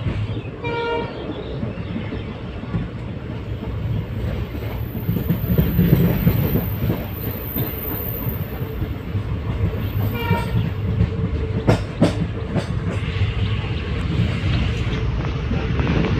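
Passenger train running at speed, heard from inside the carriage at an open window: a steady low rumble with wheels clicking over the rail joints. Two short high-pitched toots sound, about a second in and again about ten seconds in.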